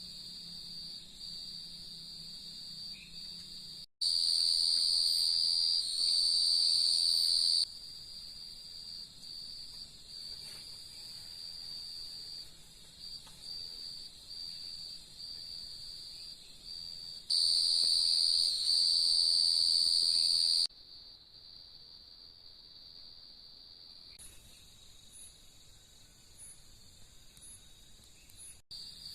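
Forest insects trilling in one steady high-pitched drone. It swells abruptly to much louder twice, for about three seconds each time, then drops back. A few short faint chirps come near the end.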